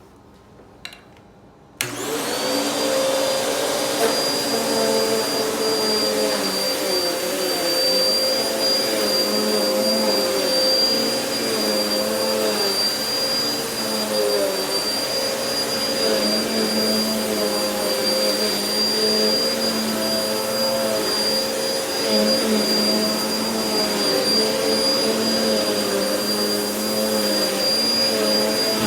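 Vacuum cleaner switching on abruptly about two seconds in, then running steadily on carpet with a constant high whine. Its lower tone wavers slightly as the load changes.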